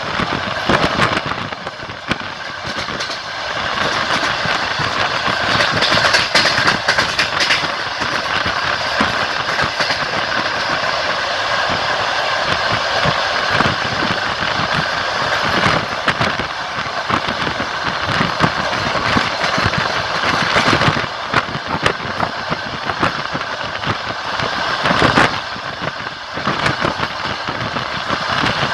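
Passenger train running along the line: a steady rolling and rattling noise, with the wheels clicking and knocking over rail joints.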